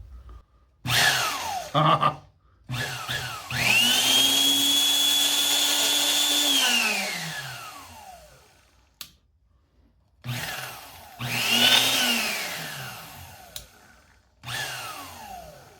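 Restored corded 1/2-inch electric drill's brushed motor test-run on the trigger: a few short blips, then a run of about three seconds with a steady hum and high whine that winds down slowly as the motor coasts to a stop, then two more short runs that also wind down. The motor runs freely on its first test after new brushes and rewiring.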